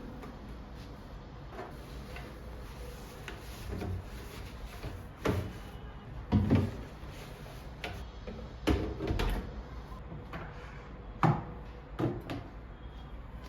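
Household handling sounds: a series of sharp knocks and clicks at uneven intervals, like objects being picked up and set down or a drawer or cupboard door being worked, over a low steady room background.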